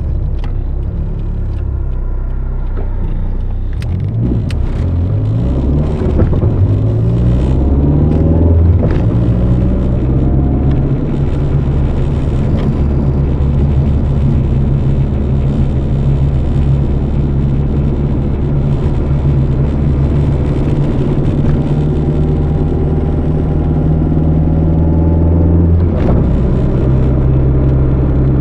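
Turbocharged CA18DET four-cylinder engine of a 1991 Nissan 200SX S13 with a custom 3-inch exhaust, heard onboard while driving. The revs climb in a few steps over the first ten seconds as it pulls through the gears, then hold fairly steady. There is a short break and dip about 26 seconds in.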